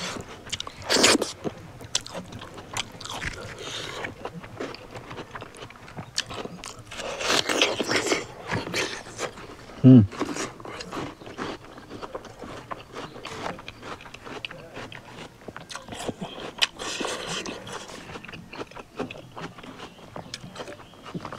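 A person eating a meal of pork and rice close to the microphone: chewing with crunching bites, clicks and scrapes. A short voiced grunt about ten seconds in is the loudest sound.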